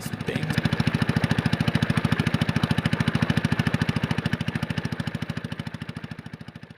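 Small fishing boat's engine running steadily with an even, fast chugging of about a dozen pulses a second, fading out near the end.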